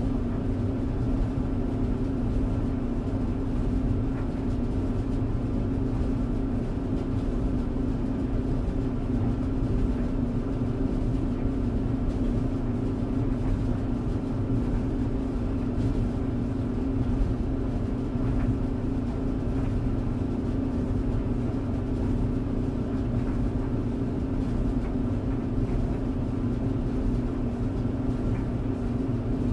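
Clothes tumble dryer running steadily: a constant low rumble with a steady hum of the drum and motor.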